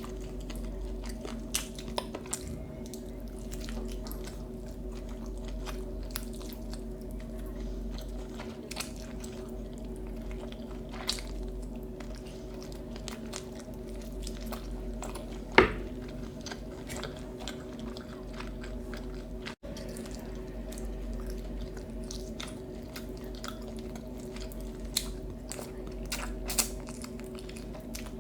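Close-up chewing and biting sounds of a meal being eaten: wet mouth sounds with scattered crunches, and one louder sharp crunch about halfway through. A steady low hum runs underneath.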